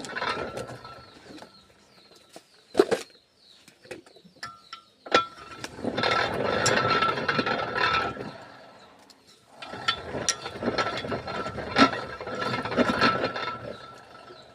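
Rubber sheet roller machine running with a geared, ratcheting clatter. It runs in stretches of a few seconds, with a quieter pause in the first third broken by a couple of sharp knocks.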